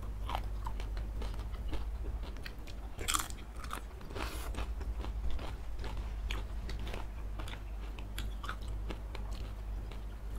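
Close-miked chewing and biting of noodles and satay, a steady run of small mouth clicks with two louder bursts about three and four and a half seconds in.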